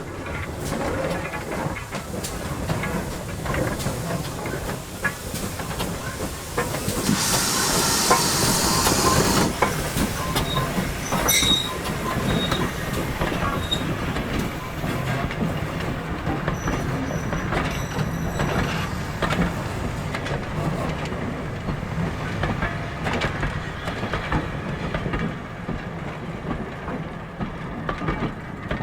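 A GWR steam tank engine and its train running on the line, with a loud burst of steam hiss about seven seconds in and short high-pitched wheel squeals a little later.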